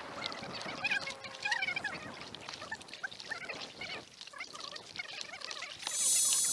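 Birds calling over and over in short, curving calls. A few seconds in, close-by water starts pouring and trickling loudly.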